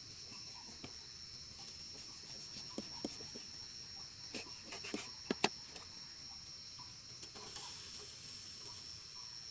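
Steady high-pitched insect chorus, like crickets, with a few light clicks and knocks in the middle.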